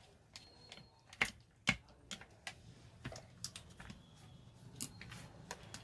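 Irregular clicks and taps of small grinder parts and hand tools being handled during an angle-grinder repair, with two sharper knocks a little over a second in.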